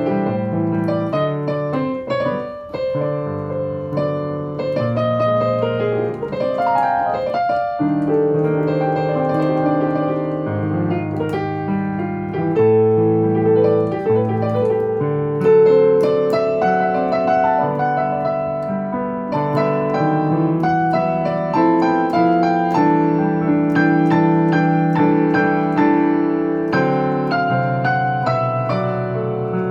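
Solo jazz piano: chords and melody lines played continuously, with notes sustained and overlapping.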